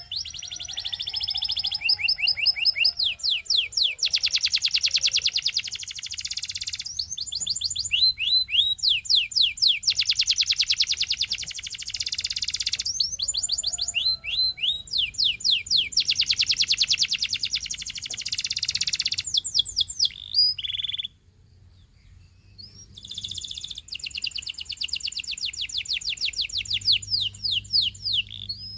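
Canary singing a long song: series of rapidly repeated sweeping notes alternating with very fast rolls. The song breaks off briefly about two-thirds of the way through, then resumes.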